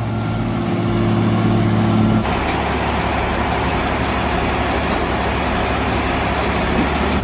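Heavy vehicle engine running with a steady low hum. About two seconds in, the sound cuts abruptly to a louder, rougher engine rumble that holds steady.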